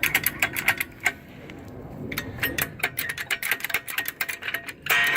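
Hydraulic floor jack being pumped up toward the truck frame: rapid metallic clicking. The clicking stops about a second in and starts again a second later.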